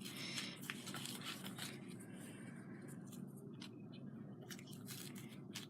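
Faint handling noise: a few light clicks and soft rustles of small craft pieces being moved about over quiet room tone.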